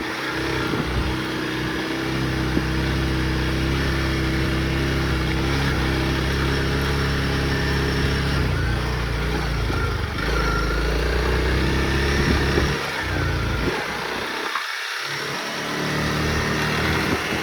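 Honda CRF motorcycle engine running steadily under way. It eases off for a moment near the end, then picks up again.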